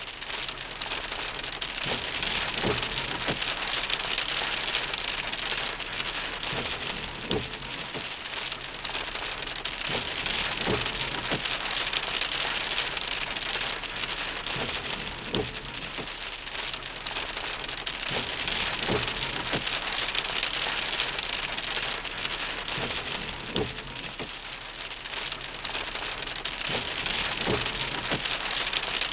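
Steady rain falling hard on a surface, a dense even hiss, with faint low knocks every few seconds.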